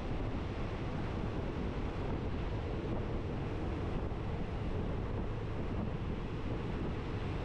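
Steady low rumble and rushing noise of a passenger train running, with wind buffeting the microphone.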